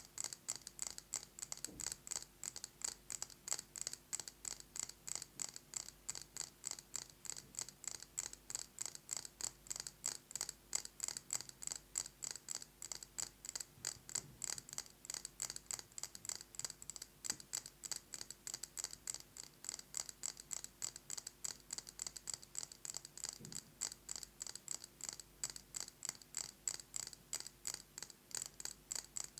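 Fingernails tapping fast on a glass candle jar, a steady run of sharp, bright clicks at several taps a second.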